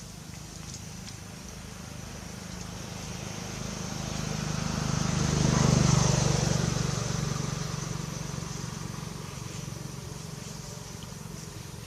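A motor vehicle passing by: its engine hum and road noise build up gradually, are loudest about halfway through, then fade away.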